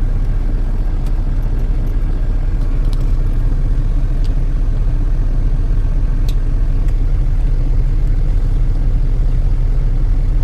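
Semi-truck engine and road rumble heard from inside the cab: a steady, loud low drone, with a few faint ticks.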